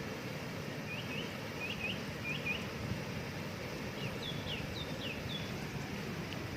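Steady rush of a waterfall with a small bird singing over it: three pairs of quick upswept chirps, then, a little past the middle, a short run of higher, falling notes.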